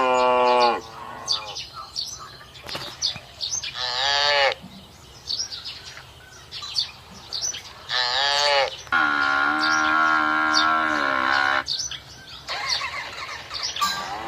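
Cows mooing several times, one long drawn-out moo about nine seconds in, over birds chirping.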